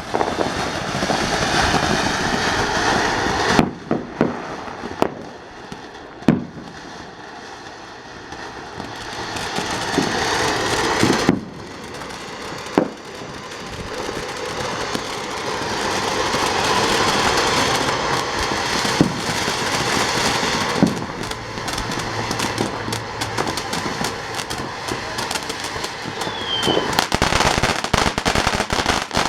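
TNT Disco Turkey firework fountain burning: a steady hiss of spraying sparks that swells and fades, with several sharp pops along the way, turning to dense rapid crackling near the end.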